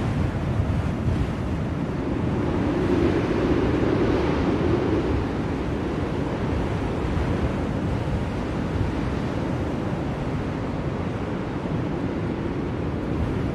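Blizzard wind blowing steadily in a dense rushing noise, swelling in a gust about three to five seconds in.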